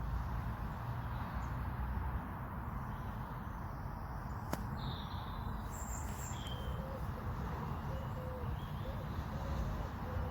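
Outdoor ambience: a steady low rumble of distant traffic or wind, with a few short bird chirps around the middle and soft repeated low calls in the second half. There is one sharp click just before the chirps.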